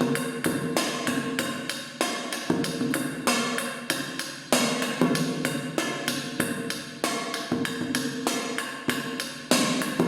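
Rhythmic percussion beat played on a metal can: a fast, steady run of hits with louder accented strikes every couple of seconds.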